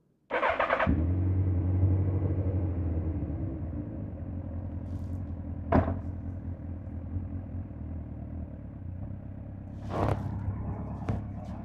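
2005 Suzuki GSX-R1000 K5's inline-four engine starting: a brief burst of starter cranking, then it catches and settles into a steady idle, a little louder in the first couple of seconds. A sharp click about six seconds in and a short noisy bump about ten seconds in.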